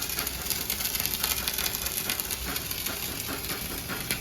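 Dual-shield flux-cored arc welding with .045 wire and 75/25 shielding gas at about 25 volts and 280 amps: the arc gives a steady, dense crackling sizzle.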